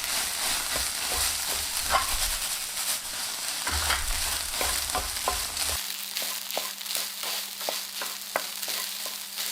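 Food sizzling in a frying pan, with short taps and scrapes of a utensil stirring it, the taps coming more often in the second half.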